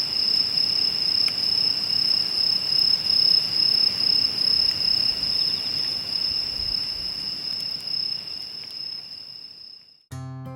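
Crickets trilling in one steady high continuous note, with a wood fire crackling faintly beneath; the sound fades out near the end and acoustic guitar music begins just before the end.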